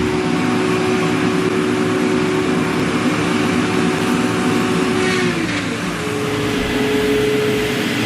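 An engine-driven machine running at a steady pitch. About five seconds in, its tones glide down and a different steady tone takes over.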